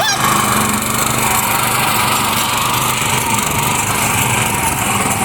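Mini tractor's small engine running steadily at an even speed.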